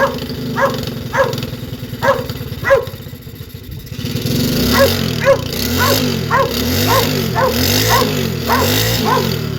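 A dog barking over and over, about two barks a second. Beneath it, from about halfway, a small pit bike engine runs with a rising and falling pitch.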